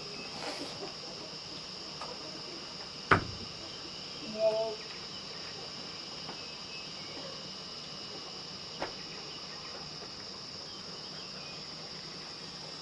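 Steady, high-pitched chirring of insects, likely crickets, with a sharp knock about three seconds in and a short vocal sound about a second later.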